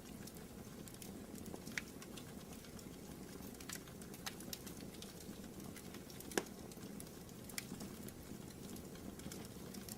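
Fire burning in a fireplace: a steady low rumble with scattered crackles and pops, the loudest pop about six seconds in.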